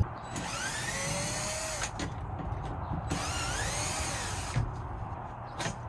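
Power drill running in two bursts of about a second and a half each, its motor pitch rising and falling as the trigger is squeezed and eased, with a couple of sharp clicks near the end.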